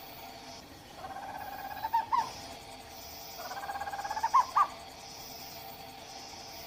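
Owl calling twice: two pitched calls about a second long each, slightly rising and ending in a quick upward flick, over a faint steady background of regular high-pitched insect-like pulses.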